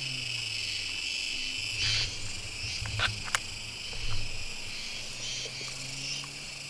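A steady, high chorus of crickets and other night insects, with a few small plastic clicks about three to four seconds in from GoPro mount parts being fitted together.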